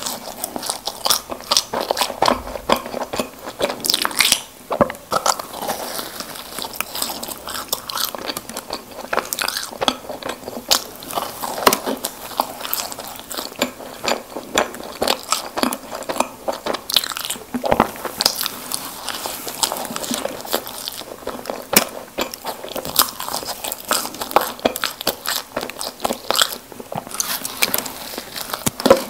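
Close-miked eating sounds of someone biting and chewing Krispy Kreme doughnuts, a dense, continuous run of small sharp clicks and mouth noises.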